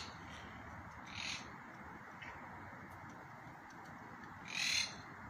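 Wild parakeets calling: a short call about a second in, a faint one a second later, and a louder call near the end, over a steady background hum.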